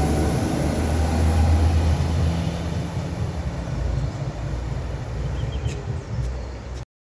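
Northern Ireland Railways Class 4000 diesel multiple unit pulling away from the station, its low engine rumble fading as it moves off. The sound cuts off suddenly near the end.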